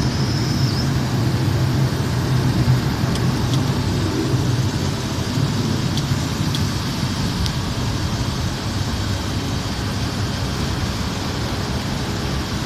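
Steady noise of a Boeing 737's jet engines and rushing air during takeoff, with a low steady hum underneath and a few faint ticks.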